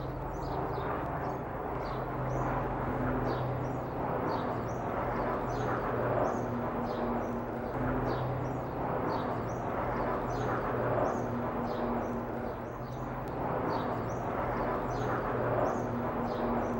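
Small birds chirping over and over, short falling chirps at about two a second, over a steady low hum of city background noise.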